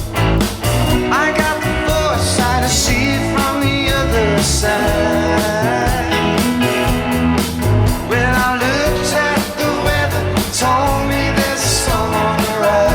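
Rock band playing with guitars, bass, keyboard and drums, a lead line bending in pitch over a steady drum beat.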